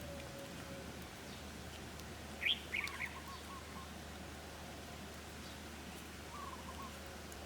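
Wild birds calling: a quick cluster of high chirps about two and a half seconds in, then a short run of lower notes, with a similar run near the end. Under the calls is a steady, even rushing noise.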